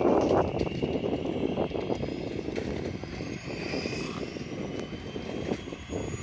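Strong wind buffeting the microphone with a gusty rumble. Over it runs the high whine of a small aircraft's engine, slowly rising in pitch.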